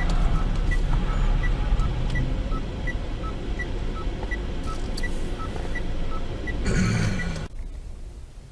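Inside a car, a steady electronic two-tone beeping, high and low notes alternating about three times a second, over the low hum of the car. The sound cuts off abruptly about seven and a half seconds in.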